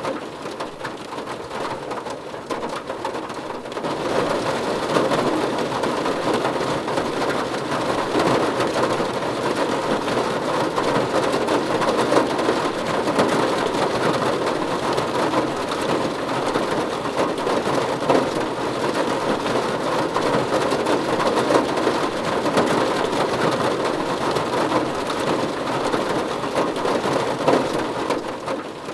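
Heavy rain falling steadily, growing louder about four seconds in and easing near the end.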